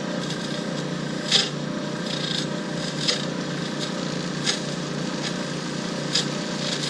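Lathe running with a steady hum while a turning tool scrapes at a spinning shift-knob blank, in short cuts every second or so.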